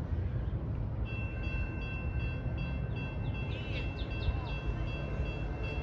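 A train approaching in the distance: a steady low rumble, with high ringing tones that come in about a second in and hold steady. A few bird chirps are heard near the middle.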